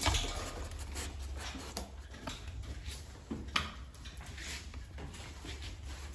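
American Bully puppies moving about and scuffling, with scattered clicks and taps and one sharper sound about three and a half seconds in, over a low steady hum.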